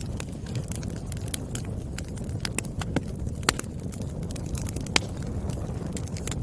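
Wood fire crackling: a steady low rumble of burning logs with irregular sharp pops and snaps, a couple of them louder in the second half.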